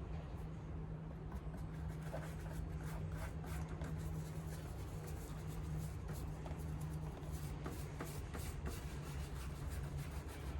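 Quick, repeated rubbing strokes on a leather shoe as it is polished, over a steady low hum.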